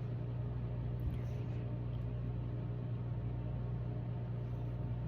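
A steady low hum, unchanging throughout, with a few faint brief sounds over it.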